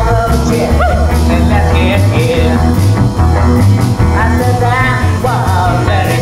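Rock band music with electric guitars, bass and drums playing a steady, driving beat, and pitched lead lines that bend and slide.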